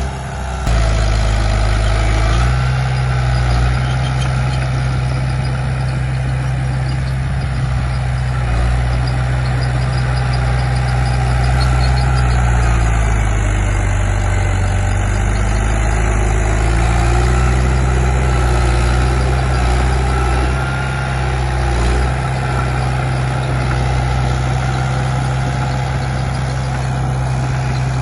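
Heavy diesel engine of earth-moving machinery running steadily, its note sagging lower for a few seconds midway and then recovering.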